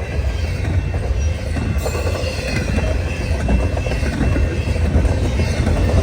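Freight train cars rolling past at speed: a steady rumble of wheels on rail, with a faint, thin steady wheel squeal above it.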